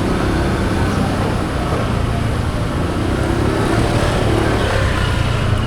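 Motorbike engine running steadily while riding, with a constant rush of road and wind noise picked up at the handlebars.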